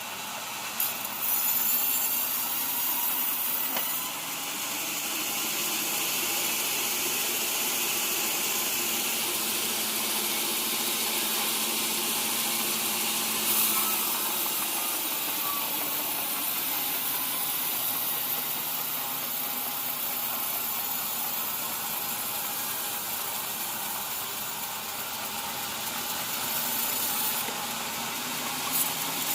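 Sawmill saw machinery running steadily, a constant mechanical hiss and hum, with a few brief louder swells.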